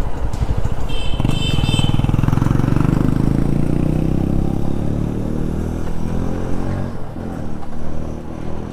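A TVS Apache RTR 4V motorcycle engine running on the move. Its note rises about a second in and then falls slowly as the bike eases off.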